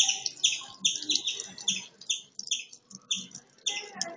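Parrot calling in a quick series of short, sharp chirps, about two to three a second.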